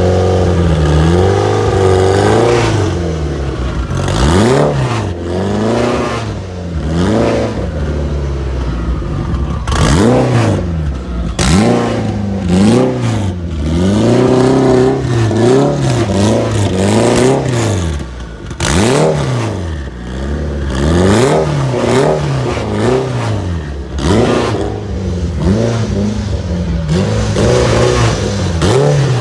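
A car engine revved over and over in short blips, its pitch climbing and dropping back about every one to two seconds.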